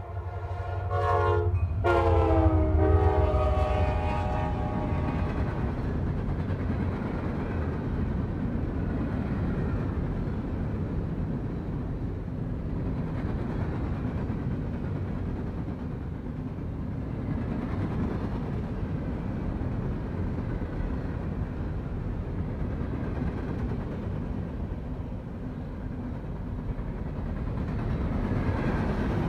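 Rebuilt EMD SD70MAC diesel locomotive passing at the head of a train, its multi-chime horn dropping in pitch as it goes by and cutting off about two seconds in. The engine's low rumble peaks just after, then the cars roll by with a steady rumble and clickety-clack of wheels on rail joints.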